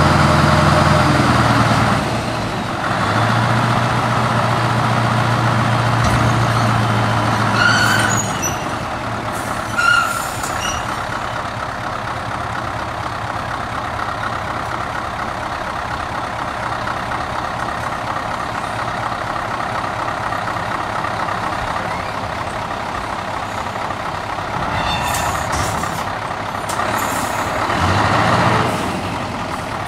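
Scania R500 V8 truck with an open exhaust pipe running at low revs, its engine note dropping about two seconds in and swelling again near the end. Short sharp air hisses from the truck's air system come around eight and ten seconds in.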